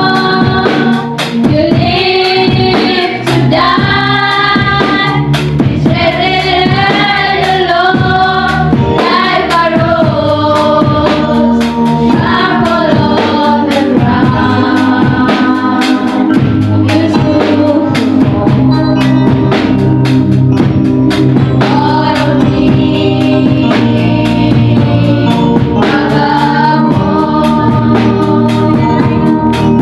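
A choir singing an Easter gospel song with a drum beat behind it.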